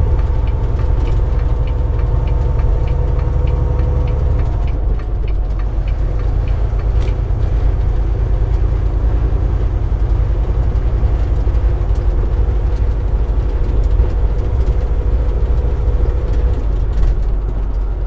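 Semi truck driving at road speed, heard inside the cab: a steady low rumble of diesel engine and road noise with a faint steady hum.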